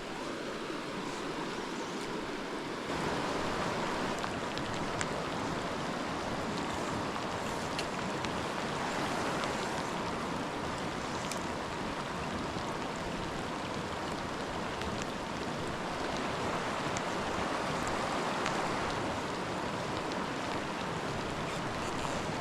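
Steady rush of creek water, an even wash of noise that gets a little louder about three seconds in.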